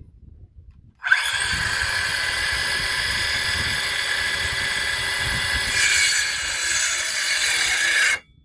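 Electric power saw cutting a wooden board to length, running steadily for about seven seconds, its sound shifting partway through, then cutting off suddenly.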